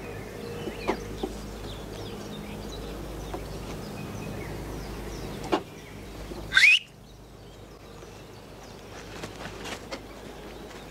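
Birds chirping outdoors over a low steady hum. About two-thirds of the way through comes one short, loud rising whistle, after which the hum drops away and only the birdsong remains.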